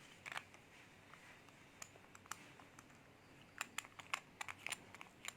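Faint small plastic clicks and taps from handling a contact lens washing machine: a few scattered clicks, then a quicker run of them about three and a half seconds in.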